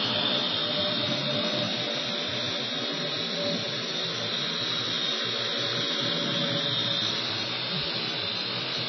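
Parrot AR.Drone 2.0 quadcopter's four electric motors and propellers running steadily in flight: a constant whir with a high whine over it.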